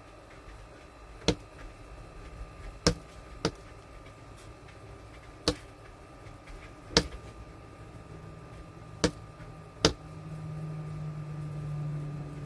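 A northern cardinal striking a window pane with its beak, about seven sharp knocks at uneven intervals. A low steady hum starts near the end.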